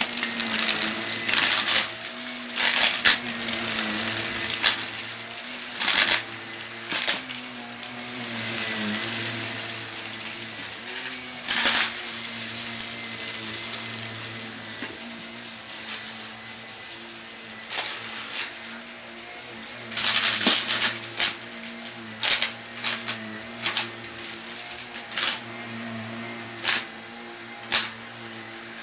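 Vacuum cleaner running with a steady motor hum while sucking up dry, crunchy debris, which crackles and rattles through it in irregular sharp clicks, thickest near the start and about two-thirds of the way in.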